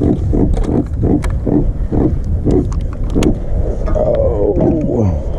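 Freshly landed catfish croaking in a string of short grunts, about two a second, then a few longer groans that fall in pitch near the end.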